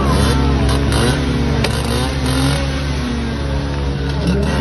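Motorbike engines revving, their pitch rising and falling, over a steady low engine drone.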